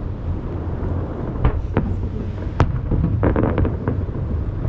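Aerial fireworks going off, with a series of sharp bangs and a quick volley of several cracks about three seconds in, over a continuous low booming rumble. The reports echo off the surrounding mountains.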